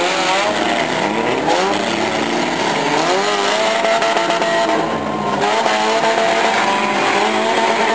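Several demolition derby cars' engines revving hard at once, their pitches rising and falling over and under one another.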